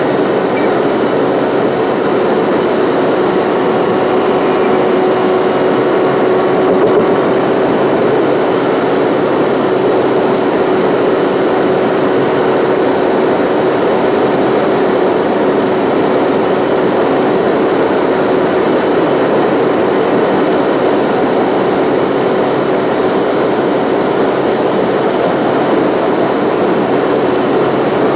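A car driving steadily at constant speed: a continuous, unchanging rush of tyre and road noise with a faint steady hum.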